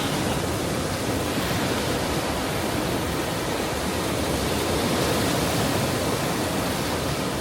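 Ocean surf: a steady, unbroken rush of breaking sea waves, with no single wave standing out.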